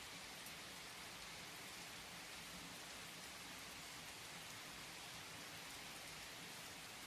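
Recorded rain falling steadily: a soft, even hiss with faint scattered drops.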